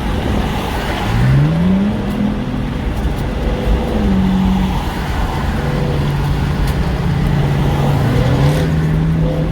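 Car engine accelerating, its pitch rising about a second in, then settling into a steady drone that steps up in pitch near the end, over constant road rumble.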